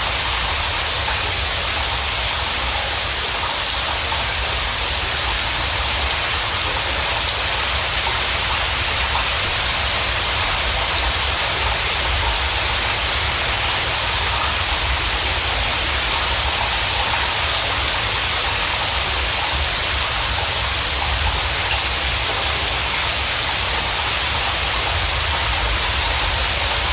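Steady, unbroken rain noise, even in level throughout, with a low rumble underneath.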